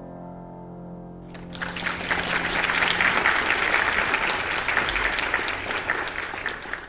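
The last piano chord dies away, then an audience applauds from about a second in.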